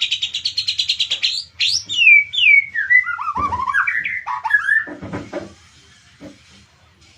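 White-rumped shama calling: a fast, rapid-fire trill that stops about a second in, followed by a run of loud falling whistled notes, then a brief rustle near the end. The owner takes the bird's behaviour for over-arousal ('over birahi').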